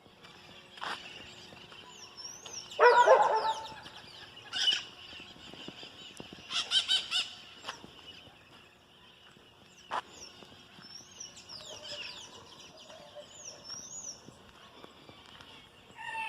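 Farmyard fowl calling: one loud call about three seconds in, then short calls in quick runs a few seconds later. Small birds chirp throughout.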